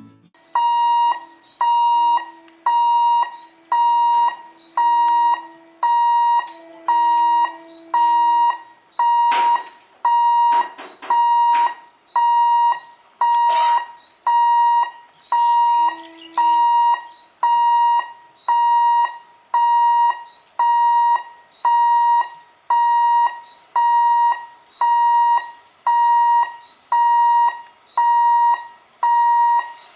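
Level crossing warning bell ringing steadily, about once a second, each ring fading before the next: the signal that a train is approaching and the gates are closing. Lower honking tones come in now and then during the first nine seconds.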